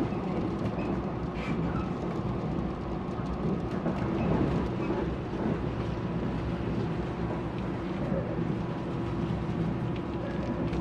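Mugunghwa passenger train running, heard from inside the carriage: a steady rumble of the car on the rails with a faint steady hum and a few light clicks.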